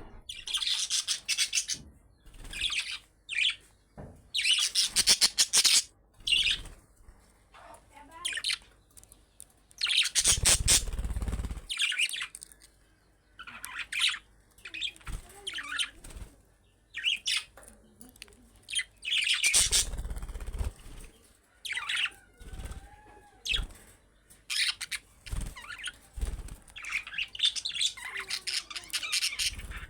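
Budgerigars chirping and chattering in repeated bursts, with short quiet gaps between them.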